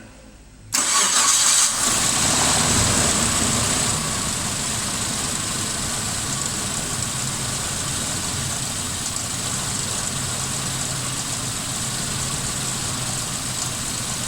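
1999 Suzuki Grand Vitara's 2.5-litre V6 starting up about a second in. It runs faster briefly, then settles into a steady idle. The engine is misfiring: its cylinder 2 injector is not pulsing.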